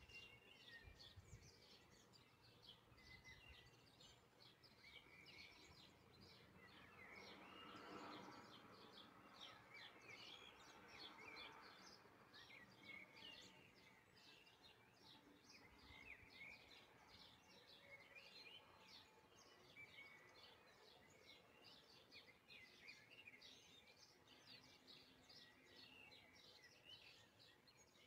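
Very faint birdsong: many quick chirps and twitters throughout, over a low hiss.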